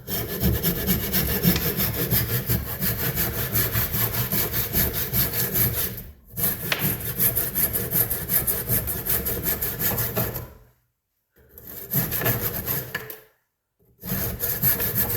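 Saw cutting through the end of a hickory hatchet handle, trimming it to about a quarter inch proud of the head. It goes in rapid, even strokes, with breaks about six, eleven and fourteen seconds in.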